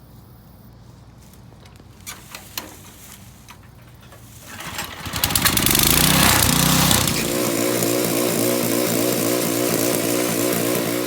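Garden tiller's small gasoline engine running at low throttle, then opened up about four and a half seconds in and running loud and steady, its pitch wavering slightly as the tines work the soil.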